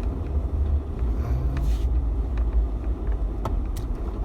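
Pickup truck driving, a steady low engine and road rumble heard from inside the cab. The engine pitch rises briefly about a second and a half in, and a couple of light clicks come near the end.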